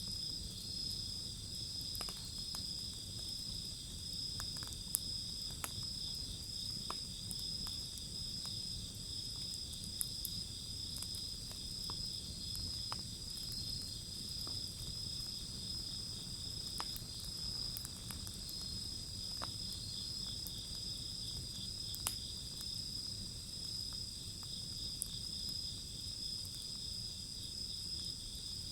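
A wood fire of scrap timber burning with a low rumble of flames and scattered sharp crackles and pops every few seconds, while insects keep up a steady high trill.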